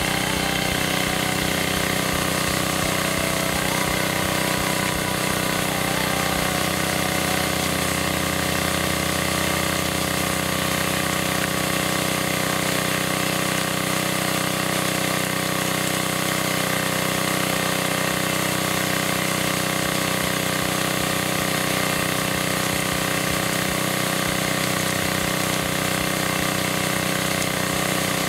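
Small gasoline engine of a homemade 2-inch gold dredge running steadily at constant speed, driving the dredge's water pump.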